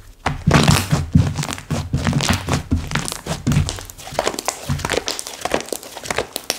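Slime being squished and pressed by hand, giving a dense run of crackles and pops. Heavier squishes come in the first half, then quicker, finer crackling.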